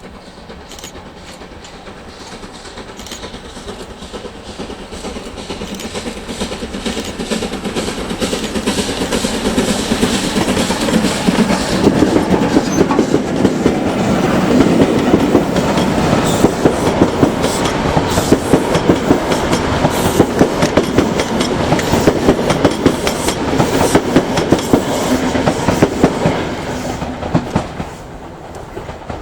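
Train rolling past, its wheels clacking rapidly over rail joints. It grows louder over the first dozen seconds, holds loud, then drops away sharply near the end.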